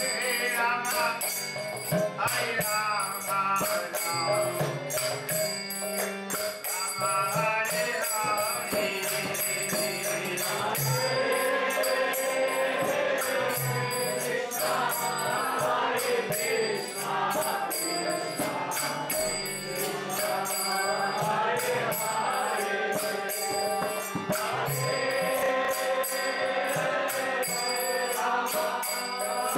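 Devotional chanting (kirtan): voices sing a melody together over jingling metal percussion that keeps a steady beat.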